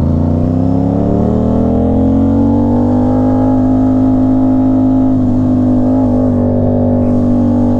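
Aprilia RS660's parallel-twin engine through an SC-Project S1 full titanium exhaust, its pitch rising as it accelerates over the first couple of seconds, then running at a steady engine speed.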